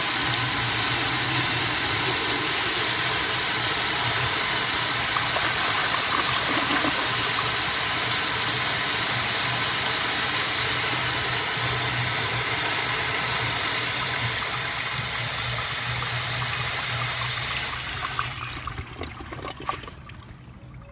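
Standard Cadet toilet flushing on about 65 PSI garden-hose pressure: a loud, steady rush and hiss of water that dies away about 18 seconds in, leaving trickling and gurgling.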